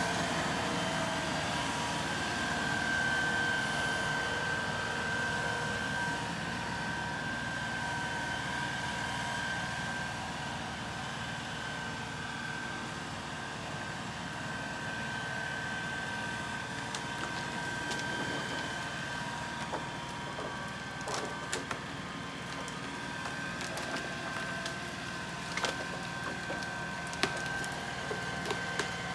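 The 35-horsepower LS XR3135 tractor's diesel engine runs steadily under load while pulling on a leaning red elm. In the last several seconds, sharp cracks and snaps of wood come more and more often as the tree starts to give way.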